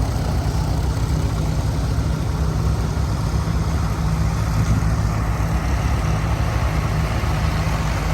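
Antique farm tractor engine running steadily, a low, even engine note.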